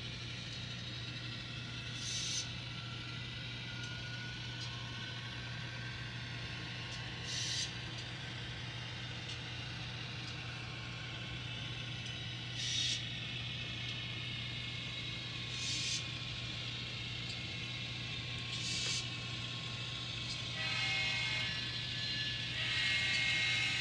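N scale model train running at speed: a steady engine-like hum, with a short hissy click every few seconds. In the last few seconds a chord of steady tones builds and gets louder.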